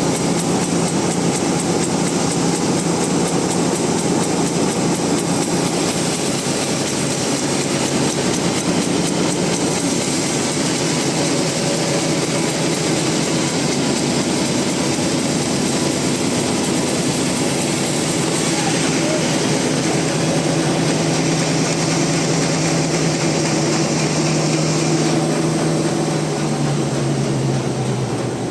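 Band sawmill running and cutting through a large rain tree (trembesi) log: loud, steady machine noise with a low hum and a high hiss from the blade, the hum sagging in pitch near the end.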